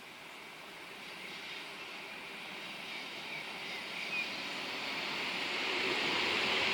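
A train approaching on the line, its running noise growing steadily louder, with two faint short squeaks about halfway through.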